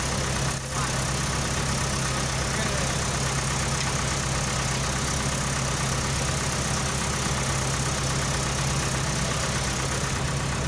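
A truck's engine running steadily with a low, even hum.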